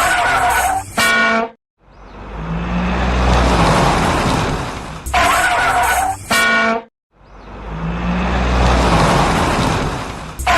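Looped cartoon vehicle sound effects: a rush of engine noise that swells and fades, then two short pitched blasts, the sequence repeating about every five seconds.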